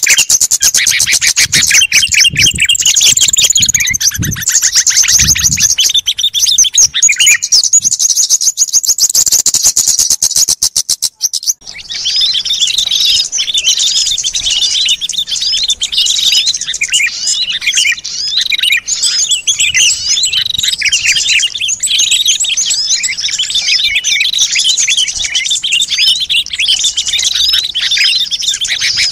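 A busy chorus of small songbirds chirping and trilling over one another, played as a bird-lure recording. About a third of the way in, it cuts abruptly to a different, denser chorus of high chirps.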